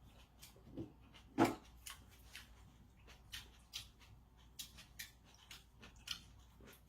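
A series of soft, irregular clicks and taps, about one or two a second, with one louder knock about a second and a half in.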